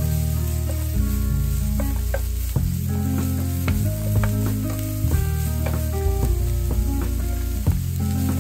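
Diced onion sizzling in oil in a nonstick frying pan, stirred with a wooden spatula that gives short scrapes and taps against the pan. Background music with sustained low notes plays over it.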